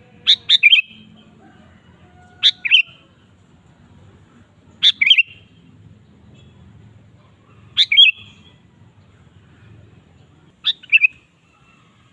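Sooty-headed bulbul (kutilang) singing: five short, bright phrases of a few quick notes each, repeated about every two and a half seconds.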